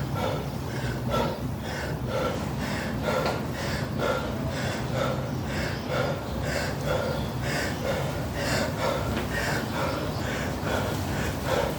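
A man breathing hard and fast, short puffing breaths about two a second, winded from repeated heavy dumbbell clean and jerks.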